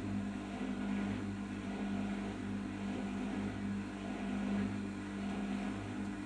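Arçelik 5083 washing machine running during its final rinse and spin stage: a steady machine hum that holds at one level and pitch.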